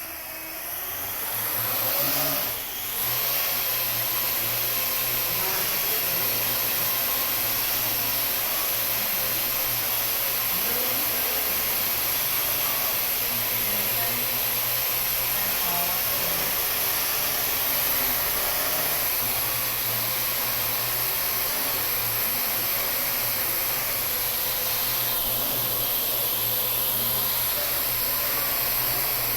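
Parrot AR.Drone 1.0 quadcopter's four electric rotors whirring steadily. The sound rises over the first two seconds and dips briefly just before three seconds.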